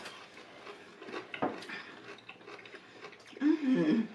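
Mouth-close chewing of crispy fried onion rings: a run of small crunches and crackles, with one sharper crunch about a second and a half in. Near the end a hummed "mmm" of enjoyment.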